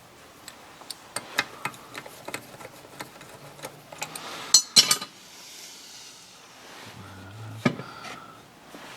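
Metal hand tools and small engine parts clicking and tapping during engine assembly: a run of light clicks, a couple of loud sharp metallic clacks about five seconds in, and one more near the end.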